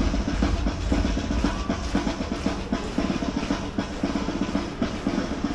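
Parade band music driven by drums, with short repeated notes in a steady marching rhythm.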